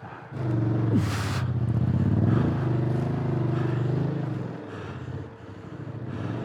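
Dual-sport motorcycle engine running under steady throttle as it pushes through deep, soft silt, with a short hiss about a second in. The engine note sags for a moment near the end, then picks up again.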